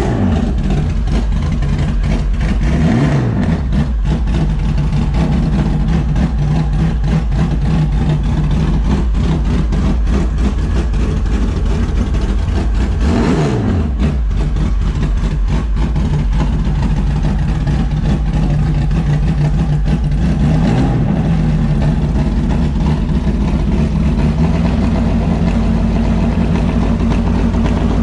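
1951 Jaguar XK120 race car's 3.4-litre twin-cam straight-six running at idle, blipped up and back down several times, with the sharpest rev about halfway through.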